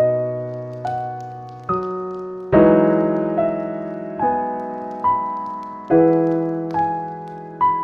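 Slow, gentle piano music: single notes and chords struck about once a second, each ringing and fading before the next.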